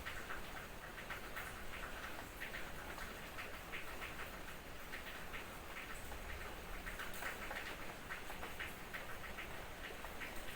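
Light night drizzle: a steady hiss with many small, irregular drip ticks and patters.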